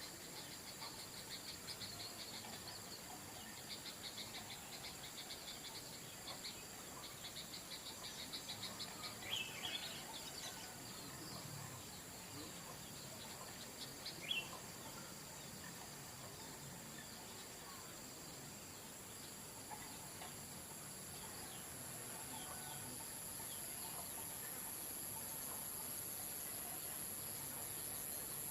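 Outdoor insect chorus: crickets trilling in a fast pulse with several steady high-pitched tones. A new, higher tone joins about two-thirds of the way through. Two short bird chirps stand out, one about a third of the way in and a louder one about halfway.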